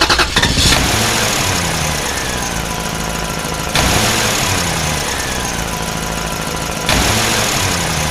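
Steady engine-like machine noise running throughout, stepping suddenly louder twice, about four and seven seconds in.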